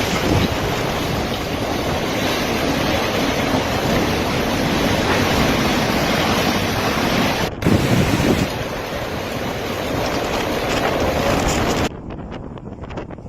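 Storm wind blowing hard and buffeting the microphone in a dense, rushing noise. About twelve seconds in it drops off suddenly to a quieter level with a few scattered knocks.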